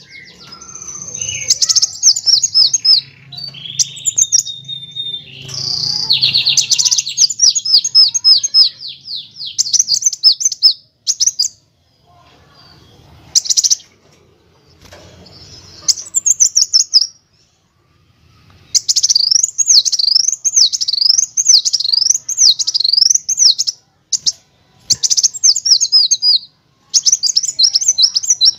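Kolibri wulung sunbird song: high-pitched, fast rattling trills and chattering phrases in bursts with short pauses. In the second half comes a rapid up-and-down warble.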